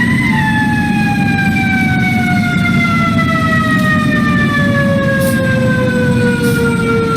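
Fire truck siren: one long tone falling slowly and steadily in pitch after a quick rise, over a steady low rumble.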